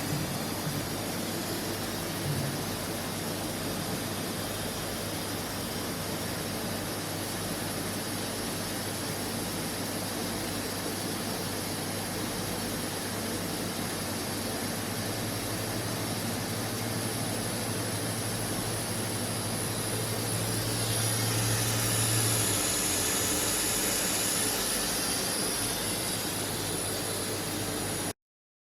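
Deckel Maho DMU 70 universal machining centre running with a steady mechanical whir. A thin high whine comes in after several seconds, and a deeper hum swells from about halfway and stops about three quarters through. The sound cuts off abruptly near the end.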